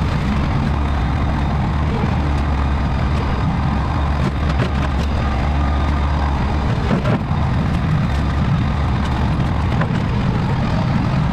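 Massey Ferguson GC1720 compact diesel tractor running steadily under load, with a low engine hum and a few sharp clicks about halfway through.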